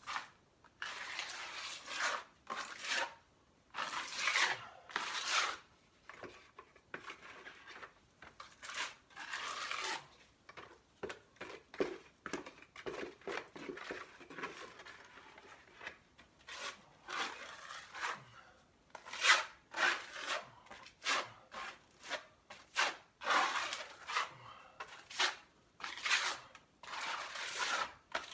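Hydraulic cement being pressed and smeared into a crack in a concrete foundation wall: repeated, irregular scraping and rubbing strokes.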